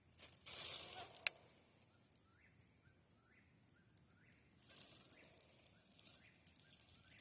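A bird calling over and over in short rising notes, about two a second, over a steady high insect trill. About a second in there is a brief rustling burst ending in a sharp click.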